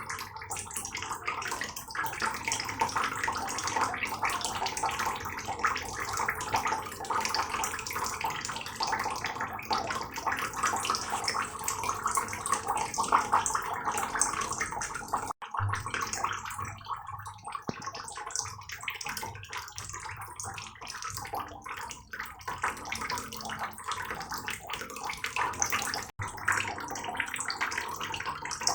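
Heavy rain falling steadily, a dense hiss of countless drops. The sound cuts out for an instant twice, about halfway through and near the end.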